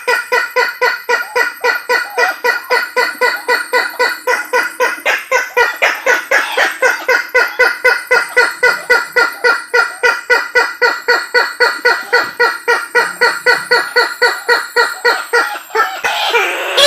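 Recorded lure call of the Sulawesi kareo (a waterhen), locally called tattakeo labuju: a long, rapid series of short, loud, clucking notes at about four a second, keeping an even pitch.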